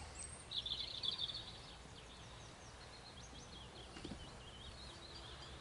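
A small bird singing over quiet outdoor ambience: a brief, fast trill about half a second in, then a run of short, quick chirping notes in the second half.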